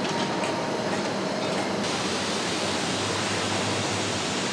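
Steady, even rushing noise of running industrial machinery, with a faint hum in it; the hiss changes character about two seconds in.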